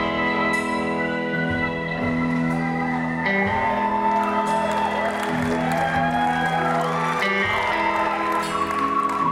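Live rock band playing an instrumental passage without vocals: guitars over long held chords that change every second or two.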